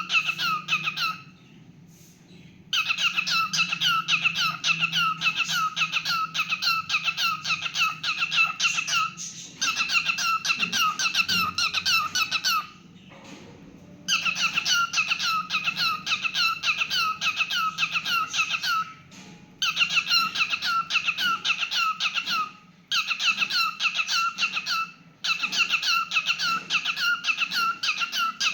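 Cockatiel chirping in rapid runs of short, squeaky notes, about ten a second. The bird sings in bouts of a few seconds each, with pauses of about a second between them.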